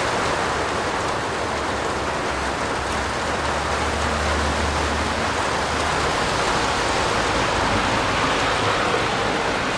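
Steady heavy rain falling on a roof, an even hiss of drops without a break. A low rumble sits underneath from about two to six seconds in.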